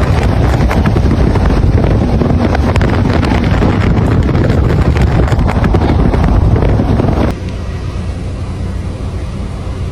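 Strong wind buffeting the microphone, loud and rough with crackling gusts, dropping to a quieter, steadier rush about seven seconds in.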